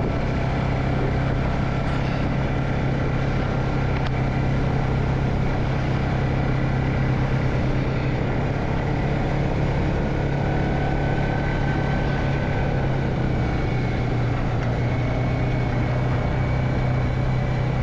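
Vehicle engine running at a steady low hum while driving, with no change in pitch or level.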